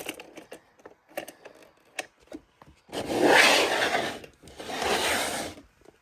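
Toys being handled: a few light clicks, then two long scraping sounds about three and five seconds in, the first the louder.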